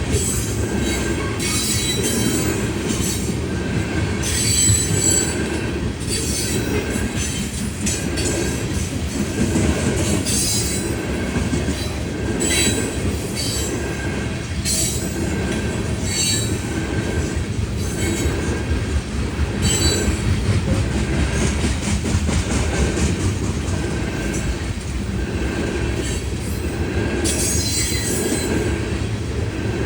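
Freight train of ethanol tank cars rolling past: a steady heavy rumble of wheels on rail, with an even repeating beat about every second and a bit as the cars go by, and brief high wheel squeals now and then.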